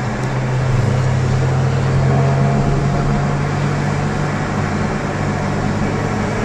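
Car engine running at a steady cruise with road noise: a low, steady drone.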